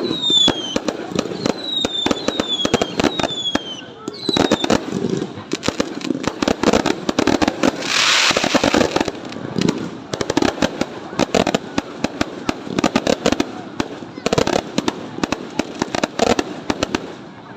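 New Year fireworks going off: a dense run of bangs and crackles. Several whistles fall in pitch during the first four seconds, and there is a brief rushing hiss about eight seconds in.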